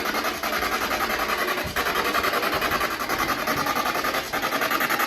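Spirit box sweeping through radio frequencies: a steady rush of fast, choppy static with a few brief breaks.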